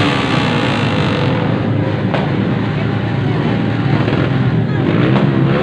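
Several motorcycles with loud open exhausts revving together, their pitch rising and falling. A sharp crack cuts through about two seconds in, with fainter ones near the end.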